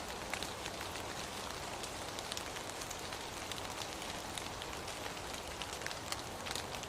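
Steady rain falling, an even hiss with many separate drop hits ticking onto a surface.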